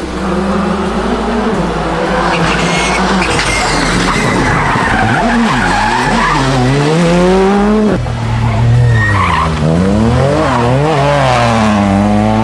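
Rally car engine revved hard, its pitch climbing and dropping again and again as the driver works the throttle and gears, with a sharp drop about eight seconds in. Tyres squeal and skid under it as the car slides through the stage.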